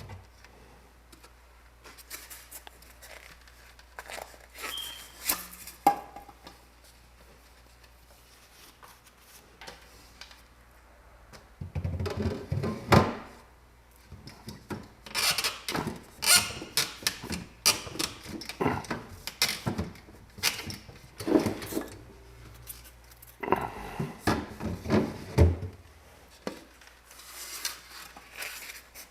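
Irregular knocks, thunks and clattering of objects being handled and set down in a small room, busiest through the middle and latter part, over a faint steady low hum.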